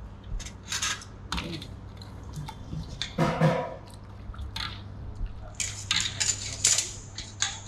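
Kitchen handling sounds: utensils and dishes clicking and knocking against bowls and pans, with short liquid rushes as sauce or seasoning is added. A steady low hum runs underneath, and a brief voice is heard about three seconds in.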